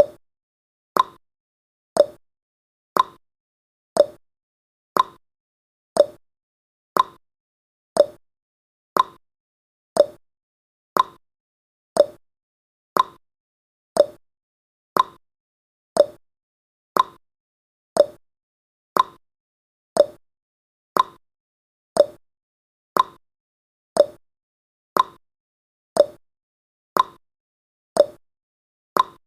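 Countdown timer's clock-style ticking sound effect, one short tick each second, alternating between a higher and a lower tick like a tick-tock.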